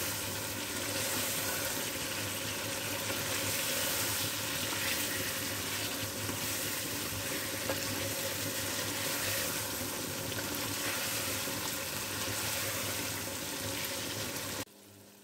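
Chicken pieces frying in ghee with onion and spices in a nonstick pan, sizzling steadily while being stirred with a slotted metal spatula. The sizzle cuts off suddenly near the end.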